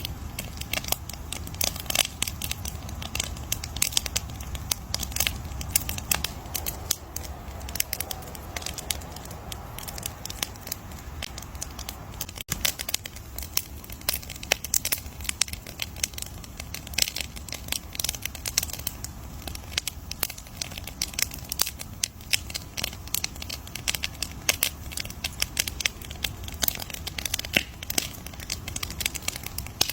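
Wood campfire crackling: dense, irregular snaps and pops over a low, steady rumble of burning flames.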